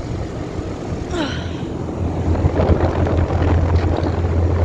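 2008 Trane XB13 3-ton air-conditioner condenser running just after start-up: its Alliance scroll compressor hums steadily under the rush of the condenser fan, growing louder about two seconds in. A brief falling squeal sounds about a second in.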